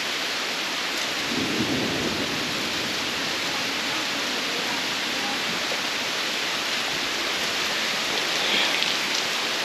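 Steady heavy rain pouring down during a thunderstorm, with a low rumble of thunder swelling between one and two seconds in.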